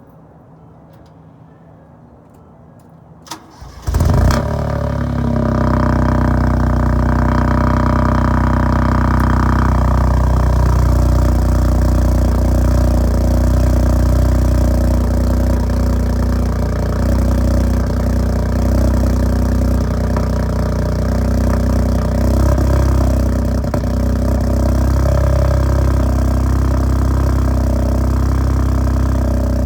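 2015 Ford Focus 1.0 EcoBoost three-cylinder turbocharged engine cold-starting through a decat downpipe, straight pipe and Cherry Bomb muffler: a few faint clicks, a brief crank about four seconds in, a loud flare as it catches, then a steady idle.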